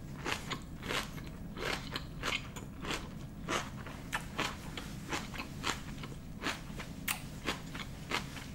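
A person chewing a mouthful of food with the mouth closed, close to the microphone: a steady run of short, crisp crunches about two or three a second.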